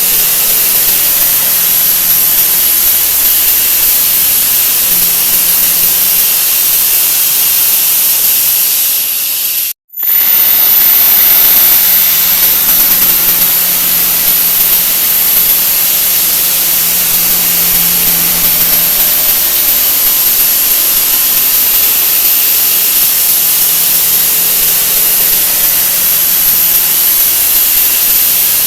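A 'wah wah' sound effect sped up to an extreme rate, its repeats blurred into a loud, steady hiss that sits mostly in the highs. It cuts out for a split second about ten seconds in, then resumes.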